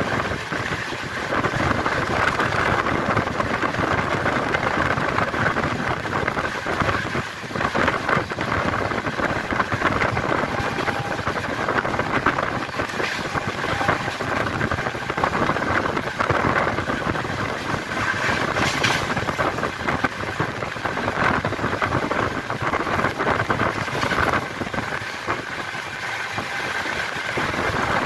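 Express passenger train running at high speed, heard from an open coach doorway: a steady rush of wind mixed with the rumble and clatter of steel wheels on the rails.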